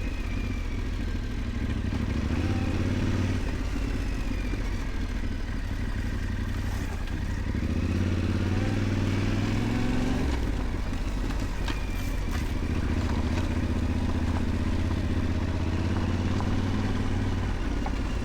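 Yamaha Ténéré 700 parallel-twin motorcycle engine running under way on a dirt track, its note rising and falling as the throttle opens and closes.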